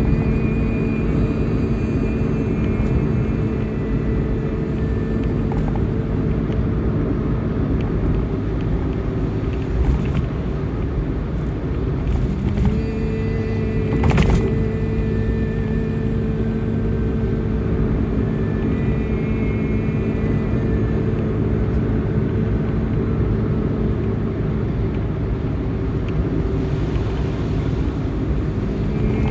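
Long droning tones held at one steady pitch over a low rumble, with higher overtones shifting above them, made as calming tones. The drone breaks off briefly about twelve seconds in and again near the end, then resumes.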